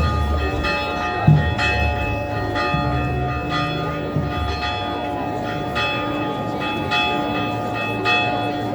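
Church bells ringing, struck again and again so that their tones overlap. There are a few heavy low thuds in the first second and a half.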